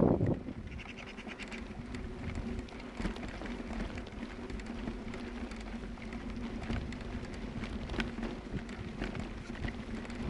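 A gust of wind on the microphone dies away at the start, leaving a lull: a faint steady low hum with scattered small ticks and patter.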